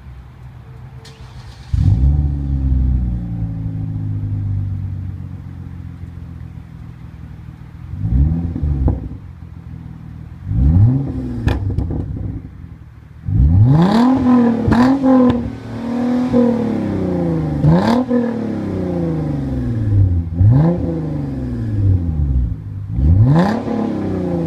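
2013 Hyundai Genesis 3.8-litre V6 with an aftermarket JUN cat-back exhaust, downpipes and H-pipe. It starts up about two seconds in, then settles toward idle. After that the engine is blipped in quick revs about eight times, each rising and falling sharply, with the idle between them.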